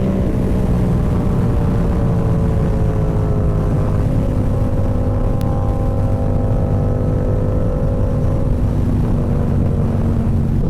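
Motorcycle engine running under way, heard from the rider's position with wind rushing over the microphone. The engine note shifts at the start, sags slightly in pitch over the first few seconds, then holds a steady cruise.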